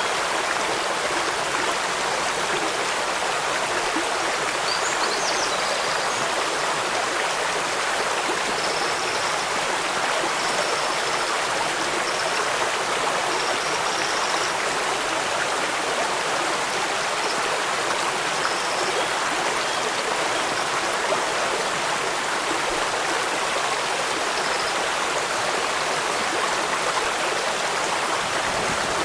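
Steady rushing water from a stream, an even unbroken hiss with no change in level.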